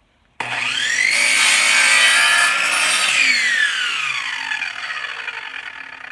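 Electric chop saw switched on, its motor whining up to speed, then cutting through a composite decking board. About three seconds in it is switched off and the blade's whine falls slowly as it spins down.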